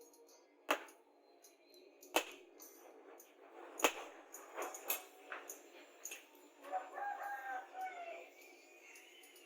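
A few sharp knocks, the loudest about four seconds in, then a rooster crows once for about a second and a half.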